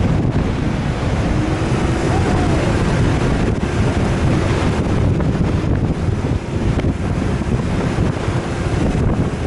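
Loud, steady wind rumble buffeting the microphone, with a faint steady hum underneath.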